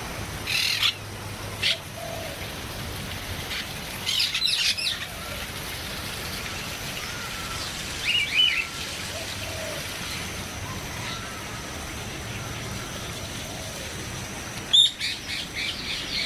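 Birds calling: several short bursts of shrill chirping spread through, the loudest near the end, with faint lower warbling notes between them, over a steady background hiss.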